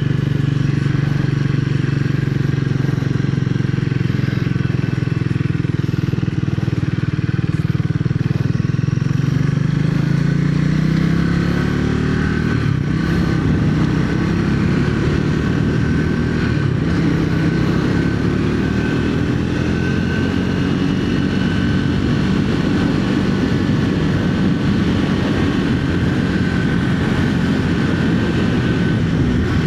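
Triumph Speed 400's single-cylinder engine running at a steady pitch, then revving up about a third of the way in as the bike accelerates, with the engine pitch rising and falling afterwards under more wind and road noise.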